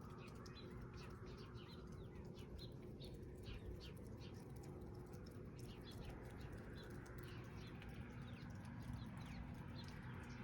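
Many small birds chirping: short high chirps come several times a second, overlapping, at a faint level.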